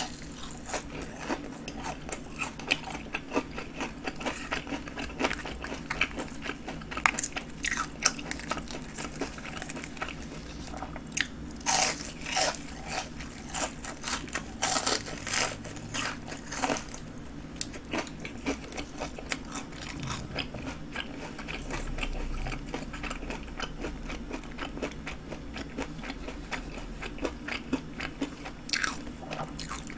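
Close-up crunching and chewing of a breaded, deep-fried king prawn: irregular crisp bites and crackles of the fried crumb coating, with a run of louder crunches about midway.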